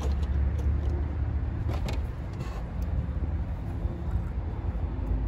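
Low steady rumble of a motor vehicle, with a few light clicks of parts being handled near the start and around two seconds in.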